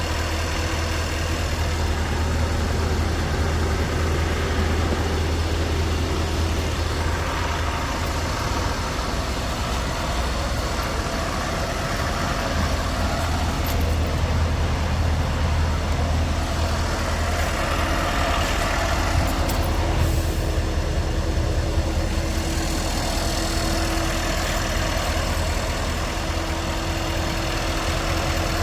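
Scania R580's V8 diesel engine running steadily at idle, a deep even hum.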